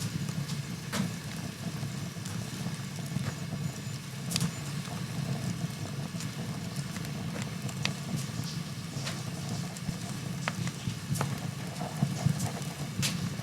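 Wood fire burning in a fireplace: a steady low rumble with sharp crackles and pops, one every second or two.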